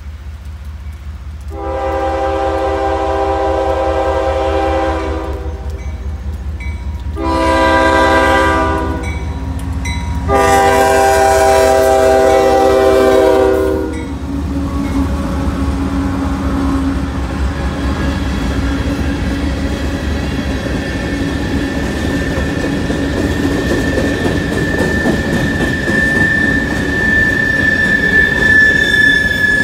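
CSX freight locomotive sounding its horn for a grade crossing: a long blast, a short one, then a long one that cuts off about fourteen seconds in as the locomotives reach the crossing. After that come the rumble and clatter of a grain train's covered hopper cars rolling past, with a steady high wheel squeal growing louder near the end.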